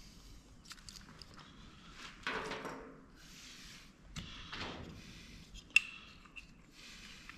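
Small plastic and metal parts of a dome security camera being handled and worked loose: scattered light clicks and two scraping rubs, with one sharp click near the end.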